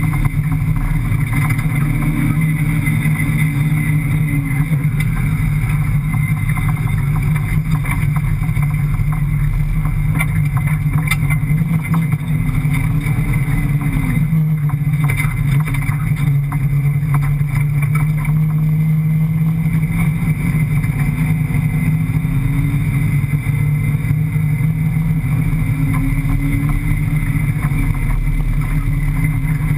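Rally car's 5.7-litre Hemi V8 heard from inside the cabin, running hard and steady across sand, its pitch dipping briefly and picking back up about halfway through. Frequent short knocks and rattles from the car ride over it.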